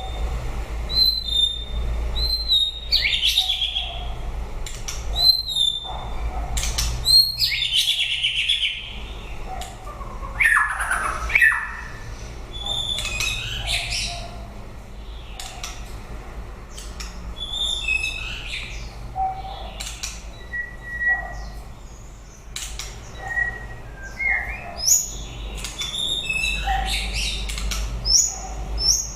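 White-rumped shama singing: a varied run of short whistled phrases, clear held notes, quick sweeping slurs and sharp clicks, in bursts with brief pauses. A steady low hum runs underneath.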